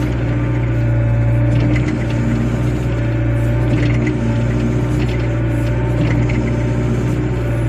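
Diesel engine of a 0.3 m³-class wheeled excavator running steadily under work, a constant low hum with a few faint short crackles over it.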